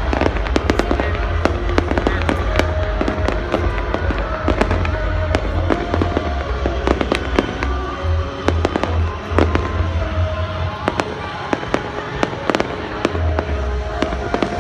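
Fireworks display: many sharp bangs and cracks in quick, irregular succession over a constant deep rumble, with music playing underneath.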